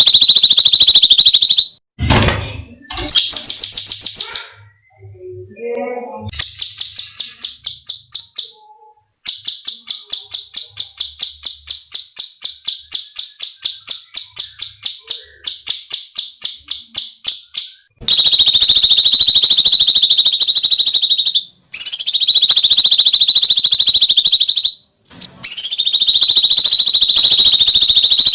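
Cucak cungkok bird calls: long, shrill, screeching trills, broken in the middle by a fast rattle of sharp repeated notes at about five a second, then the long screeching trills again.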